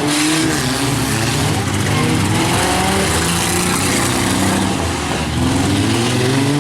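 Engines of several compact trucks and vans revving hard during a demolition derby, their pitches rising and overlapping over a continuous roar of motors.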